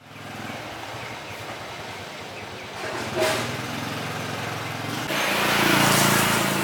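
Small engine running steadily, with a sharp knock about three seconds in and a louder, noisier run from about five seconds in.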